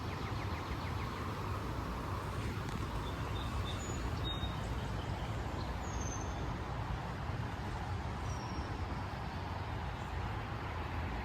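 A few short, high bird chirps, scattered and faint, over a steady low rumble.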